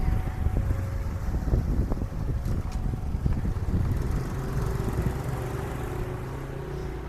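A train passing close: a heavy low rumble with knocks and clatter of the wheels running over the track. For about the first second, a two-tone signal alternates between a lower and a higher note, in the manner of a level-crossing alarm.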